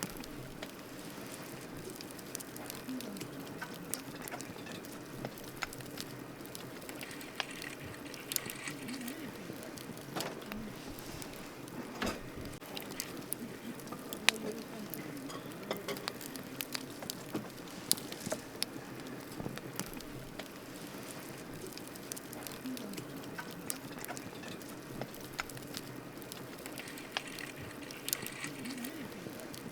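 Campfire of burning wood crackling: irregular sharp pops and snaps over a steady soft hiss.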